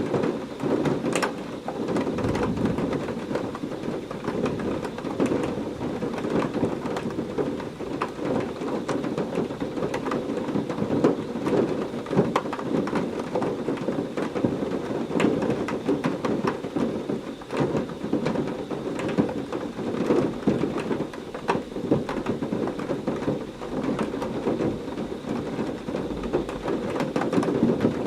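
Heavy rain falling steadily, a dense downpour with many sharp drops splashing close by.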